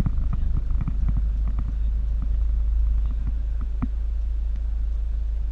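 A baler running: a steady low engine rumble with irregular clacks and knocks from the machine, busiest in the first two seconds, with one sharper knock near the four-second mark.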